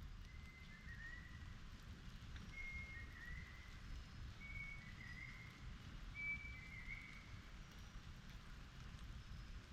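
Rain falling steadily, with a bird repeating a short two-note whistled call four times, about every two seconds: a level note followed by a slightly lower, wavering one.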